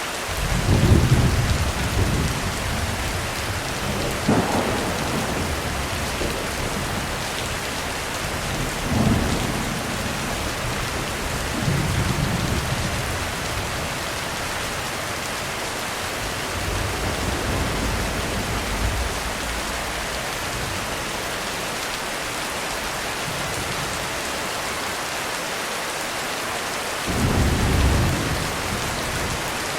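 Heavy rain on a roof, a steady hiss, with thunder rumbling several times: the loudest roll about a second in, smaller ones through the middle, and another roll near the end.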